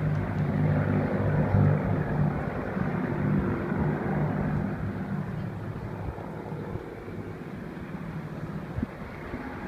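Avro Lancaster bombers' four-engine Rolls-Royce Merlin drone passing, loudest in the first half and then fading away.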